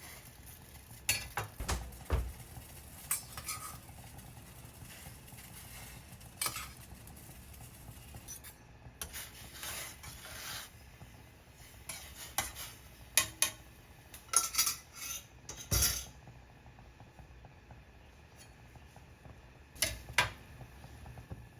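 Kitchen utensils and dishes knocking and clinking at irregular intervals, with a longer stretch of noise about nine seconds in.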